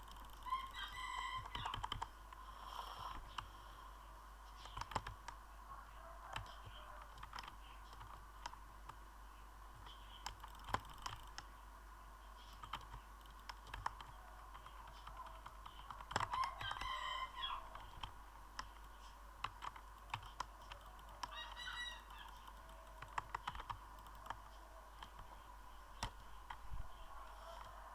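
Irregular sharp clicks throughout, with a bird, likely a chicken or other fowl, calling briefly three times: about a second in, around sixteen seconds in and around twenty-one seconds in.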